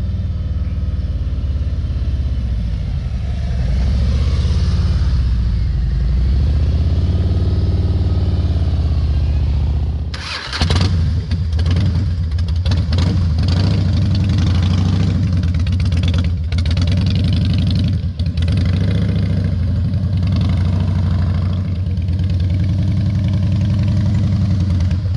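Motorcycle engines running at slow riding speed and idle, the pitch rising and falling in slow sweeps as the throttle is worked. About ten seconds in the sound drops out briefly and comes back as a rougher, noisier rumble.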